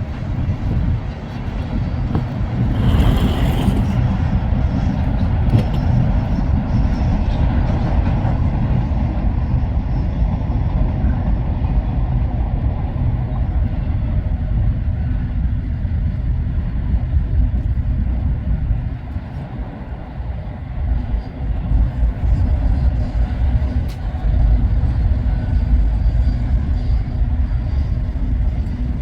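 Freight train passing close by, a loud, steady low rumble of diesel locomotives and rolling cars, with a brief hiss about three seconds in.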